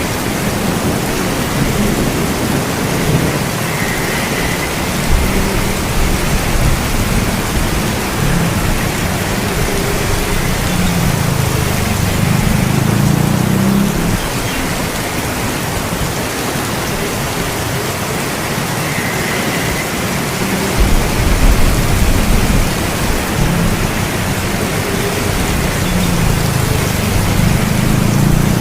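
Heavy, steady rain hissing on surfaces, with low rolling thunder that swells and fades several times underneath.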